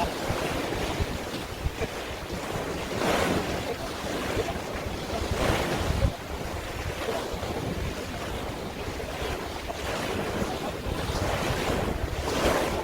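Sea waves washing and breaking every few seconds, with wind buffeting the microphone.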